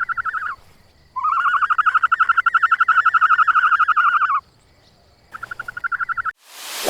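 An animal's rapid trilling call, given three times: a short trill, a long one of about three seconds, then another short one, each a fast even pulse of about a dozen beats a second on a single pitch.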